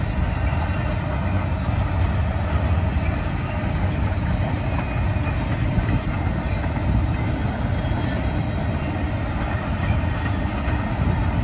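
Double-stack container train's well cars rolling past, a steady rumble of steel wheels on rail.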